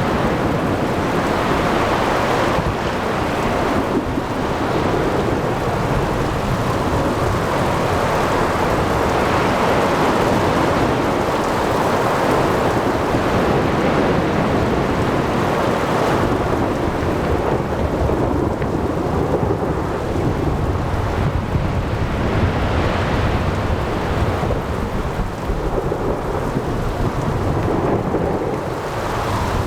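Thunderstorm over the sea: continuous low rumbling thunder over steady heavy rain, with wind and surf mixed in.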